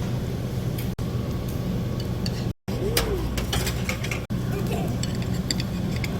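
Restaurant ambience: a steady low hum with faint voices and scattered clinks of tableware, broken by several abrupt edit cuts.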